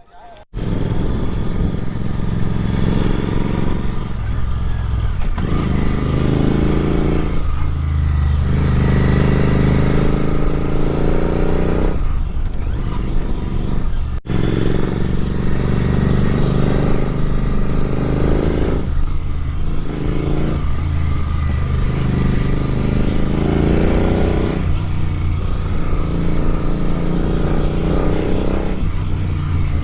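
Superbike engine through an SC-Project aftermarket exhaust while riding, the pitch climbing under throttle and dropping away several times as it pulls through the gears and the throttle closes.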